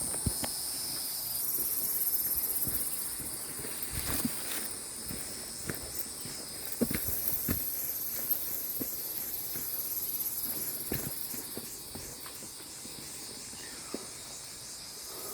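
A steady, high-pitched chorus of insects buzzing, with scattered footsteps, knocks and scuffs on a rocky trail.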